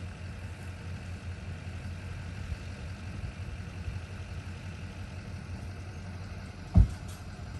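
A vehicle engine running with a steady low rumble, and a single loud thump a little before the end.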